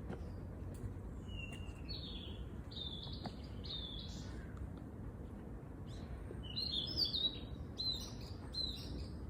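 Small songbirds chirping in short, quick phrases of high notes, in two bouts with a pause between them, over a steady low background rumble.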